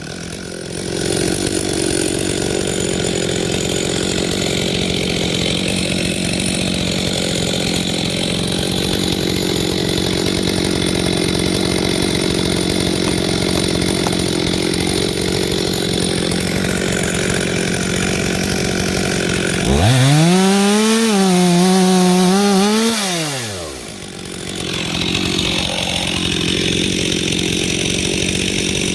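Chainsaw mounted in a chainsaw mill, running under load as it rips lengthwise along a log. For about three seconds near the end the engine note rises, holds high and then falls back before the steady cutting sound resumes.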